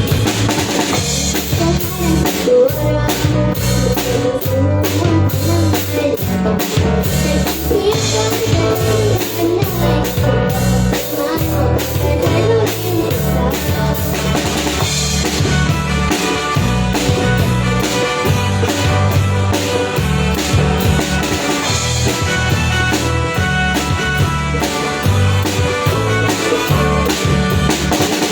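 Live band playing a song at a sound check: drum kit with kick and snare over a steady bass line, with a cymbal crash every few seconds.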